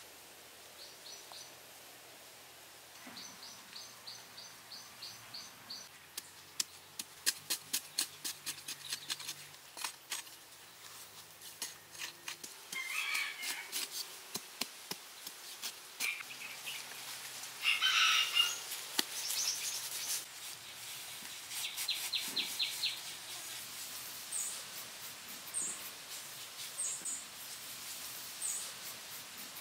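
Forest birds chirping in short, repeated high trills, several times over. About a third of the way in comes a run of sharp taps, about three a second.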